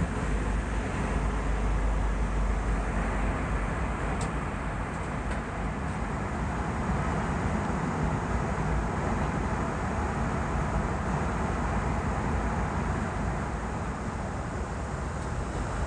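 Steady cabin noise inside an Airbus A320 in flight: an even rush of airflow and engine sound, heavy in the low end, with no rise or fall.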